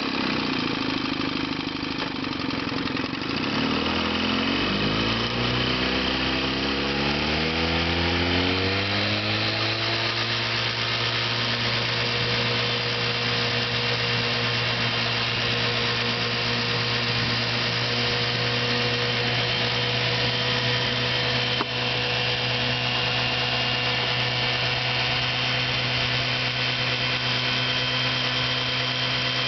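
1954 Johnson 5.5 hp two-cylinder two-stroke outboard motor running just after starting, with a freshly replaced power head and new ignition. It speeds up with a rising pitch over several seconds, then runs at a steady speed.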